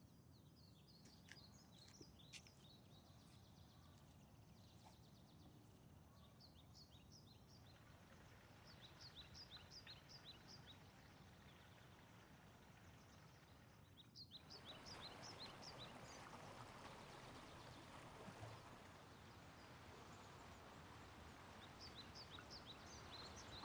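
Near silence: faint outdoor ambience with small birds chirping in short high runs now and then. The background hiss steps up a little about fourteen seconds in.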